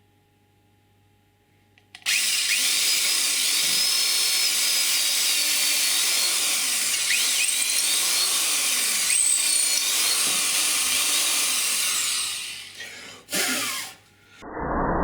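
Black and Decker electric drill motor switched on about two seconds in and running loud, its speed rising and falling several times. It winds down, gives one short burst of running, and stops near the end.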